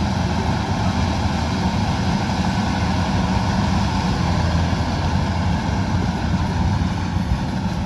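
Kubota combine harvester's diesel engine and threshing gear running steadily under load.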